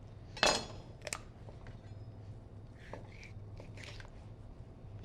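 Handling noise as a raw poultry carcass is turned over on a cutting board: a sharp clatter about half a second in and a click just after, then faint taps and rustles.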